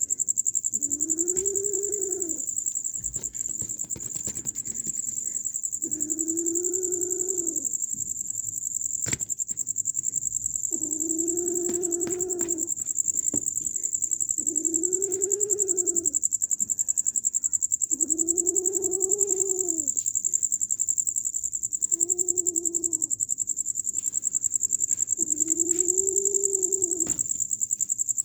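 A cat meowing about seven times, each meow rising and falling in pitch and lasting a second or two, a few seconds apart. Under it runs a steady high drone of crickets.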